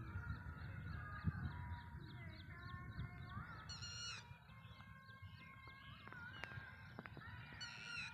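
Several birds calling and chirping in open fields, with a run of quick repeated chirps early on and a sharp, ringing call about four seconds in and again near the end, over a low wind rumble on the microphone.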